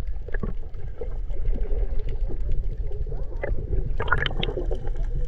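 Water sloshing and gurgling around a small boat over a steady low rumble, with scattered small knocks and a short cluster of splashy sounds about four seconds in.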